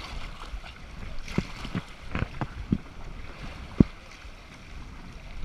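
Kayak on moving river water: a steady low rush of water and wind, with half a dozen short knocks in the middle, the sharpest a little under four seconds in.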